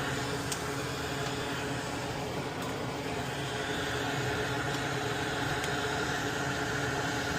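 Steady hum and whir of a small electric motor running on the workbench, with a few faint ticks.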